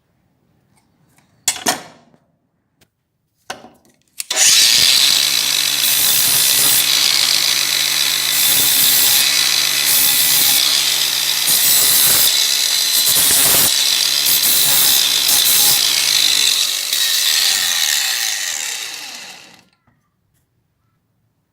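Two short knocks, then an electric power tool starts about four seconds in and runs for about fifteen seconds: a steady motor hum under a loud hissing scrape as it works on the metal of the clamp, dying away near the end.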